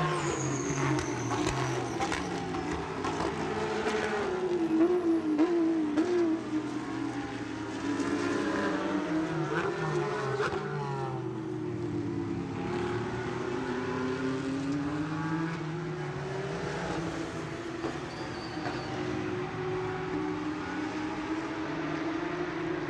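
Several racing engines running at high speed, their pitch rising and falling as they pass.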